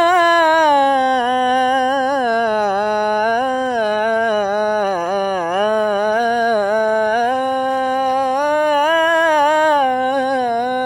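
A man singing one long melismatic phrase of an Arabic madih (a praise song for the Prophet), holding a single vowel that winds up and down in pitch without a break. The line sinks lowest about five seconds in and climbs again toward the end. Only the one voice is heard.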